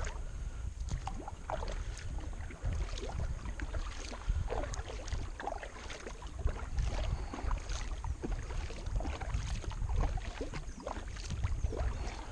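A kayak paddle working through river water, with a steady run of short, irregular splashes and drips as the blades dip and lift during hard upstream paddling. A steady low rumble sits underneath.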